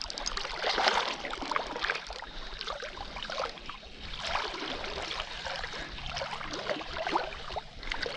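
River water splashing and sloshing in irregular surges as a person wades out through fairly deep water.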